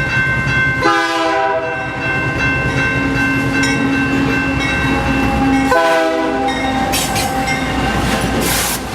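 Diesel locomotive horn sounding two short blasts, about a second in and again near six seconds, over the steady rumble of a passing train.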